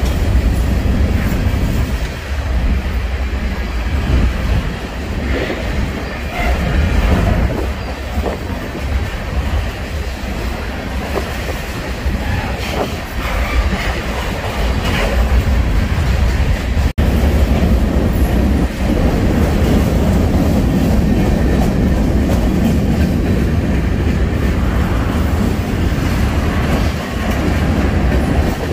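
Freight train rolling past at close range: a steady heavy rumble of steel wheels on rail with a running clatter of cars, the sound dropping out for an instant about seventeen seconds in.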